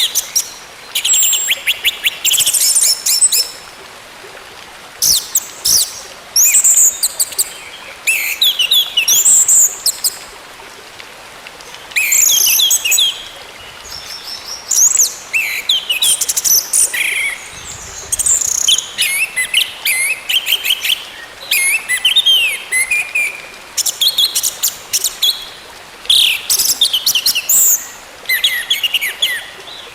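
Orange-headed thrush (anis merah) singing: a run of quick, varied whistled and chattering phrases, each about a second long with short pauses between, over a steady faint hiss.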